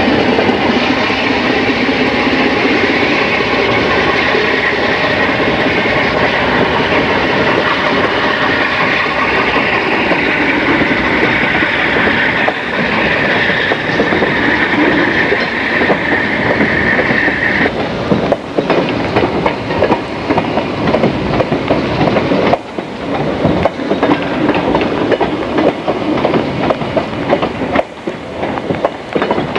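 Diesel-hauled freight train passing close by: the locomotive first, then a string of tank cars with their wheels clicking over the rail joints. A steady high-pitched whine runs over the train noise and stops suddenly about eighteen seconds in, after which the wheel clicks stand out sharply.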